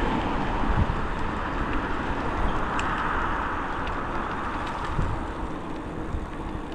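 Steady road and wind noise heard from a moving e-bike among traffic, easing slightly toward the end.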